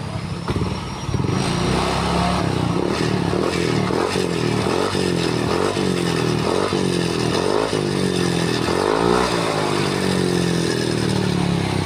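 Yamaha NMAX scooter's single-cylinder engine running through a newly fitted SKR Racing aftermarket exhaust, idling briefly and then revved in a series of short throttle blips, the pitch rising and falling again and again.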